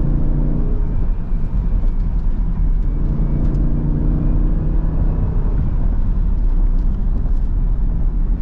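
SRT Jeep Grand Cherokee under way, heard from inside the cabin: a steady low engine and road rumble. The engine note stands out twice under throttle, once near the start and again for a couple of seconds midway.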